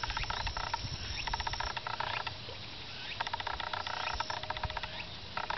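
Frogs calling in repeated trains of rapid pulses, each train lasting about half a second to a second, over a low rumble.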